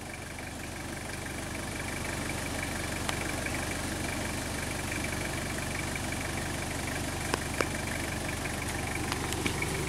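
Four-wheel-drive wagon's engine idling as it crawls slowly down a sandy track, a steady low hum growing gradually louder as it approaches, with a few faint clicks.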